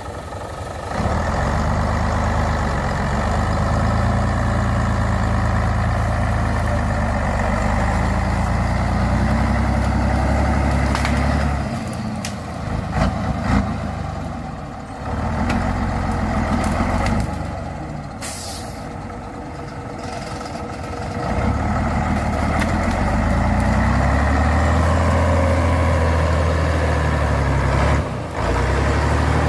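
Truck engine revving hard under load in long stretches that rise and fall, with a run of knocks near the middle and a short sharp hiss like an air brake's about 18 seconds in.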